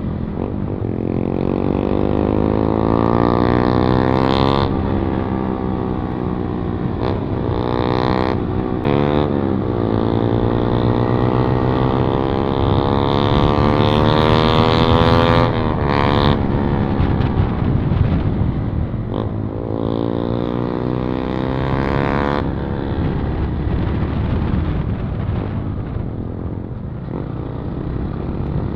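Yamaha MT-15's single-cylinder engine through a modified exhaust with the dB killer removed, accelerating through several gears: the engine note climbs, drops abruptly at each shift and climbs again, then runs lower near the end.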